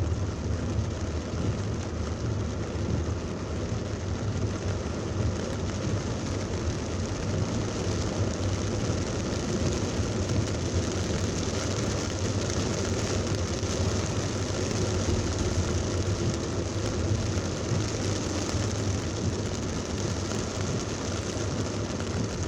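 Heavy rain pouring steadily on a moving car, mixed with a constant low road rumble.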